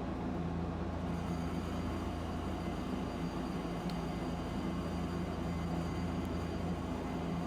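Tosaden streetcar running: a steady low rumble with an even electric hum.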